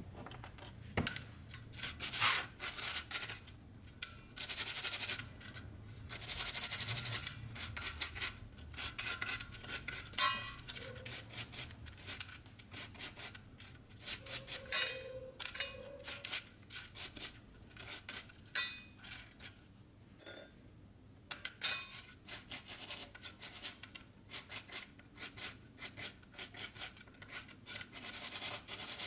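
A brush scrubbing small carburetor parts in runs of quick rubbing strokes, with a few light metallic clinks in between.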